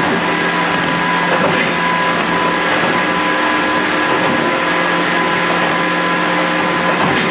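14760 series electric train running between stations, heard inside the leading car: a steady rumble of wheels on rail with a constant motor and gear hum.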